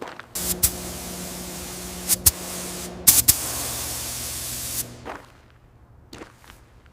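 Compressed air hissing from a workshop air tool, such as a spray gun, in a steady spray for about four and a half seconds over a low hum that drops in pitch about three seconds in, with sharp clicks. After it stops, a few light knocks.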